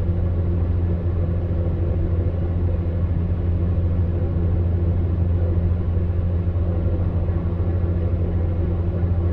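Electric fan heater running steadily: a low, even hum with a soft airy hiss above it and no change in speed.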